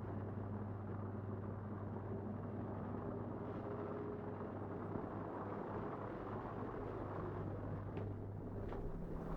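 A steady low mechanical hum, with two faint ticks near the end.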